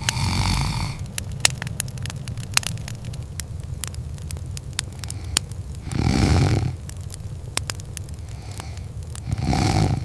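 Wood fire crackling with irregular sharp pops over a low steady rumble, and three slow breathy snore-like breaths: one at the start, one about six seconds in, one near the end.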